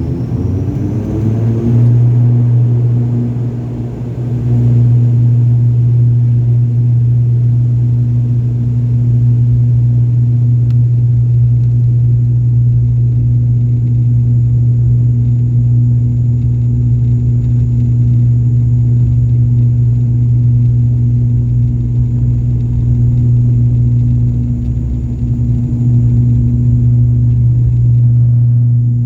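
Aircraft engines running with a loud, steady low drone, the pitch rising over the first couple of seconds and then holding.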